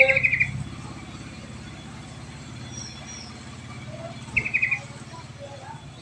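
A songbird gives a short, fast chattering trill of about five notes twice, about four seconds apart, with a few faint chirps between. A steady low engine-like hum runs underneath.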